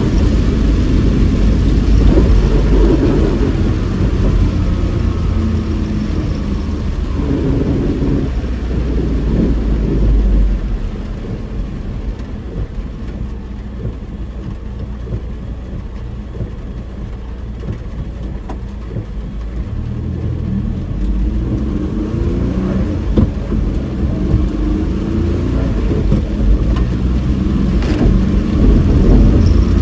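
Car engine and road noise heard from inside the cabin while driving. The sound drops off about ten seconds in and builds back up after about twenty seconds, with the engine note rising.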